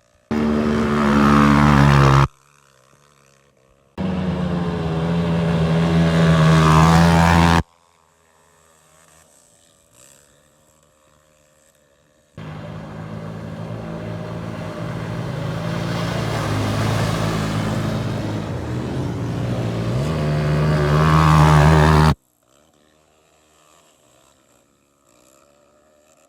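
Off-road motorcycle engines revved hard in neutral, three times: two short revs of two to four seconds and a long one of about ten seconds, each climbing a little and cutting off suddenly.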